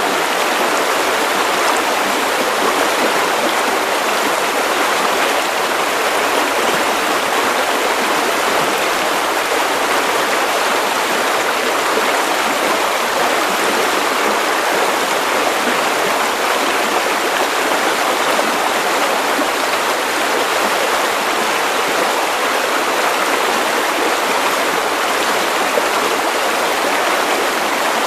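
Steady white noise: an even, unchanging hiss with most of its weight in the middle range and little bass.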